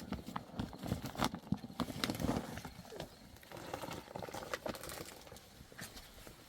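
Livestock hooves clattering: many irregular quick knocks and taps, busiest in the first half and thinning out towards the end.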